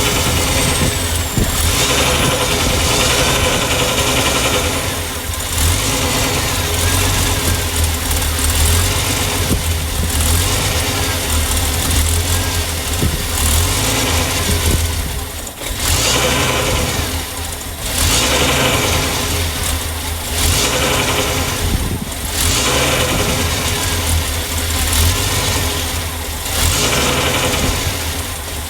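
Freshly rebuilt Ford 300 inline-six engine running loud and unevenly, its sound dropping briefly every few seconds. The engine will not idle, and a vacuum leak around a vacuum port in the aluminum carburetor base is suspected.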